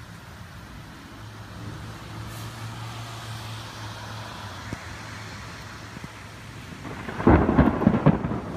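Steady hiss of rain, then about seven seconds in a close thunderclap breaks in, loud and crackling, with a rapid run of sharp cracks.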